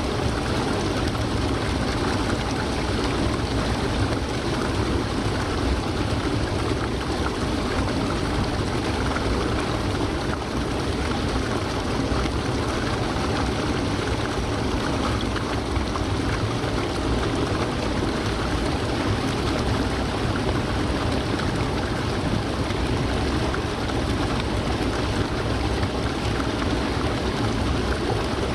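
Water of Haruru Falls pouring and crashing in a steady, unbroken rush.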